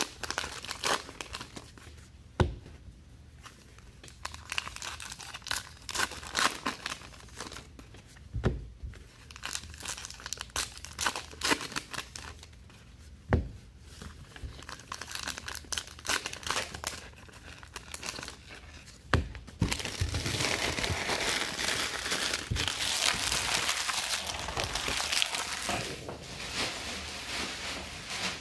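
Trading-card pack wrappers crinkling and tearing as packs are opened, with a few sharp taps. A denser stretch of steady rustling and tearing comes near the end.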